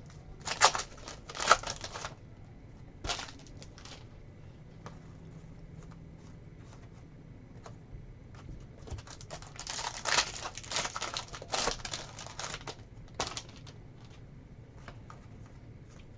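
Trading cards flicking and sliding against one another as a pack is thumbed through, in short scraping clusters: one in the first two seconds and a longer run from about nine to thirteen seconds in.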